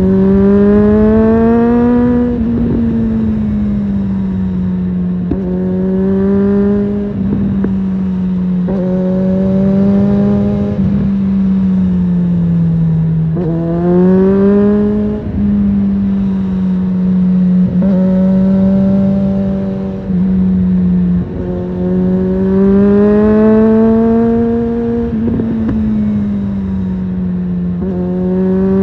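Suzuki GSF650 Bandit's inline-four engine through a Storm aftermarket exhaust, running under way. Its pitch rises and falls back several times as the throttle is worked, over wind and road rumble.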